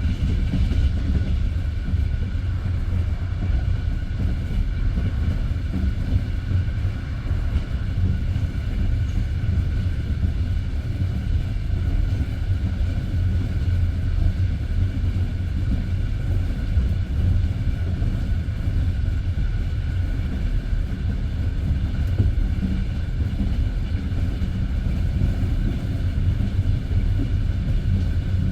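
Passenger train running at speed along the line, heard from inside the carriage: a steady low rumble of wheels on rails that does not let up.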